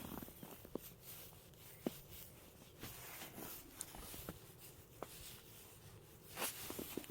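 Faint, scattered scrapes and light clicks of someone writing letters with a finger.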